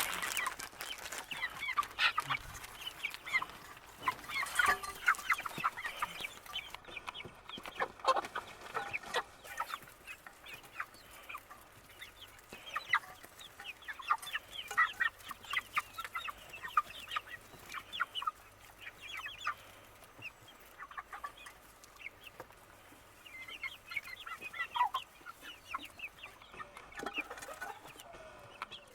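A flock of young chickens cheeping and clucking as they are fed fresh vegetables: many short, high calls, now a few, now a flurry of them, with brief quieter lulls.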